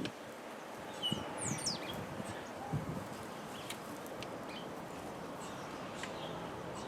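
Birds chirping in short high calls, most about a second in, over a steady background hiss, with a few faint clicks.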